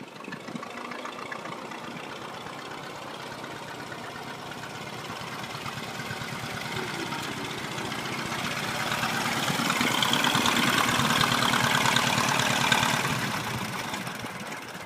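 1926 Ford Model TT one-ton truck's four-cylinder engine running as the truck drives. It grows steadily louder to a peak late on, then fades.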